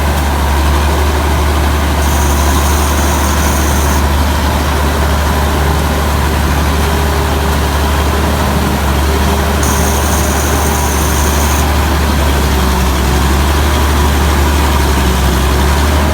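The Hino J08C diesel engine of a TAMCO Pro S9000 combine harvester running at a steady speed, with a strong low hum. A high-pitched whine joins it twice, for about two seconds each time.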